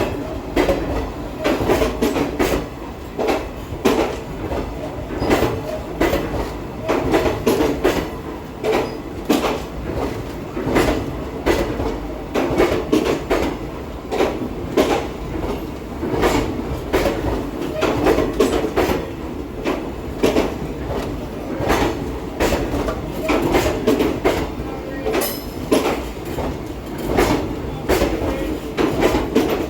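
Passenger express train rolling through a station, its wheels clacking over rail joints and points many times over a steady rumble, with occasional wheel squeal.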